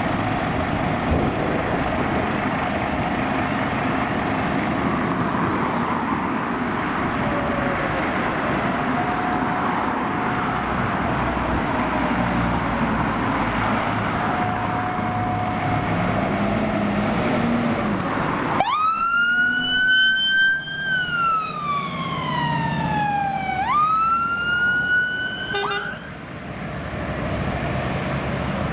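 Fire engine siren sounding close by, about two-thirds of the way in: a sharp rise, one long falling wail, a quick rise again, then it cuts off suddenly. Before it there is steady engine and road noise with a fainter siren wailing further away.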